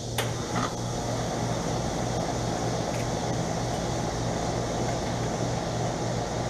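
Bryant Legacy Series central air conditioner's outdoor condensing unit running steadily: a low compressor hum under the even air noise of its fan. Two brief clicks sound just after the start.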